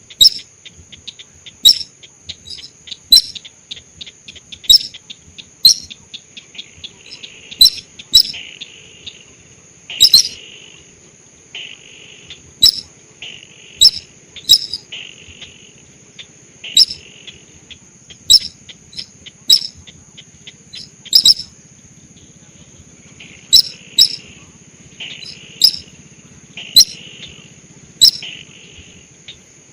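Lure call of the sintar sawah bird: loud, very short, sharp calls repeated about every second or so, over a steady high-pitched insect whine. From about seven seconds in, a softer chirring joins between the calls.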